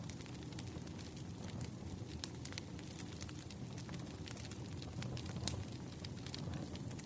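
Wood fire crackling: irregular sharp pops and snaps over a low steady rumble of burning firewood.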